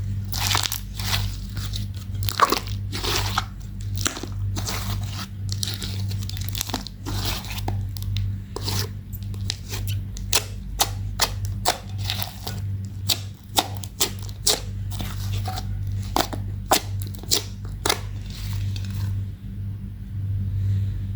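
Glitter slime being mixed, with a run of irregular sticky pops and crackles of uneven loudness. A steady low hum runs underneath.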